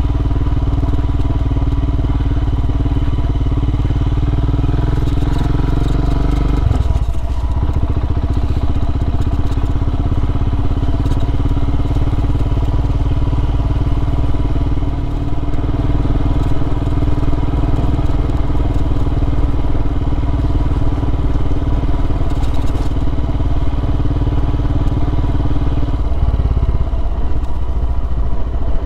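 Royal Enfield Himalayan motorcycle engine running as the bike rides along a rough gravel byway. The engine note changes about seven seconds in and again near the end.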